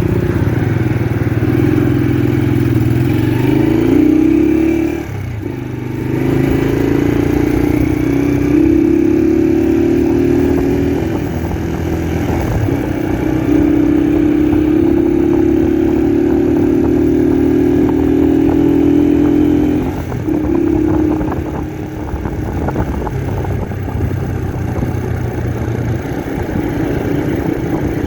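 Honda 125 CDI motorcycle's single-cylinder four-stroke engine pulling through the gears under way. Its note climbs steadily, then drops at each of three gear changes, and after the last it runs lower and quieter.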